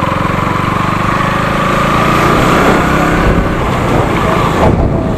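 Motorcycle engine running steadily while riding, under a rushing wind noise.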